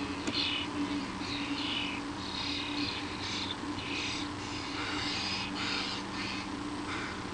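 Birds at a nest giving a run of short, harsh, hissy calls, about two a second, with lower notes joining in about five seconds in.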